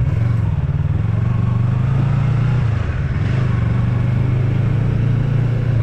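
Yamaha MT-03's 321 cc parallel-twin engine running at low revs, with a short drop in revs about halfway through.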